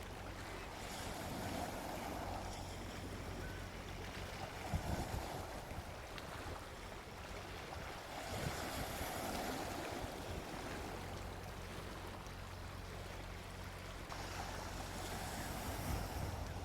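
Gentle sea waves washing onto a beach, the surf hiss swelling and fading three times, over a low rumble.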